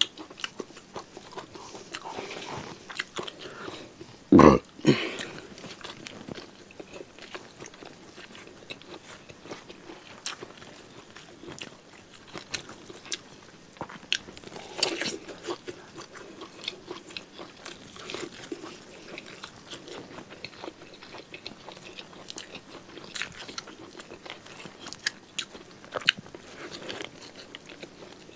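Close-up mouth sounds of a person chewing and biting a hand-fed mouthful of beef tongue and rice, wet smacks and small crunches repeating irregularly. One much louder noise about four seconds in stands out.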